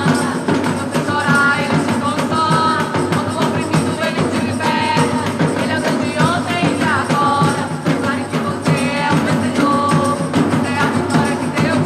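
Gospel worship band playing a song: a singing voice over a steady drum beat and band accompaniment.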